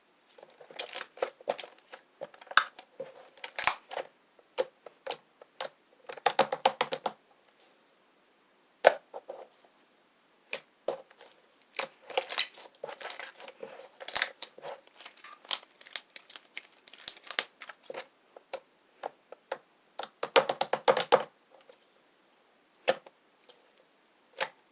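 Slime being squeezed and worked, giving sharp clicking and popping sounds in scattered runs, with dense crackling bursts about six seconds in and again about twenty seconds in.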